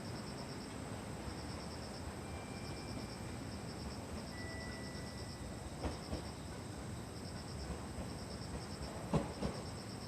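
Crickets chirping in short repeated trills, with a steady high whine above them, over a constant low background noise. Two brief thin tones sound in the middle, and there are a couple of sharp knocks near the end.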